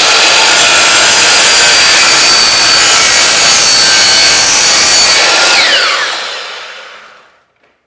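Power miter saw running at full speed while cutting a 45-degree miter through wooden molding. About five and a half seconds in it is released and winds down with a falling whine that fades out.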